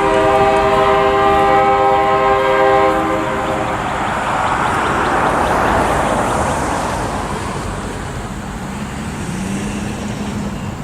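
Locomotive horn on a distant CN SD60, an older K3LA, sounding a held chord that cuts off about three seconds in. After it a rushing noise swells and fades.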